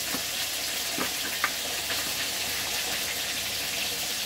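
Breaded beef milanesa frying in hot oil, a steady sizzle, with a few light clicks of a fork on the metal breading tray.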